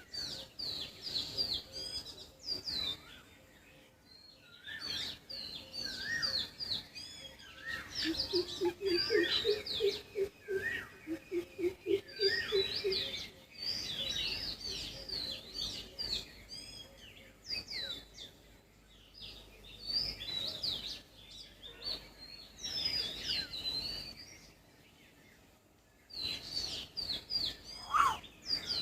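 Several wild birds chirping and calling in a dense chorus of short, high, quick notes that come in clusters with brief lulls. A lower, rapid run of repeated notes joins at the very start and again for several seconds just after the middle.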